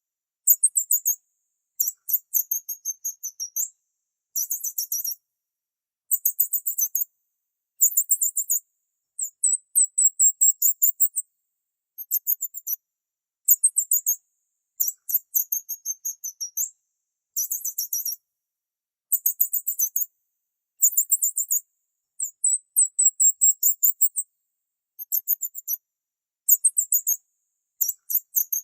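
Small birds chirping in very high-pitched phrases of rapid trilled notes, each about a second long, one after another with short gaps.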